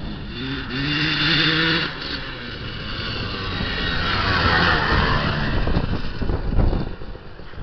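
KTM 380 SX two-stroke dirt bike engine revving up over the first two seconds, then running harder and louder, peaking around four to five seconds in, before the revs drop away with irregular pops near the end.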